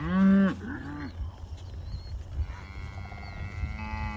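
Cows mooing: a loud moo right at the start, a fainter short one just after it, then a longer, quieter moo held for about a second and a half near the end.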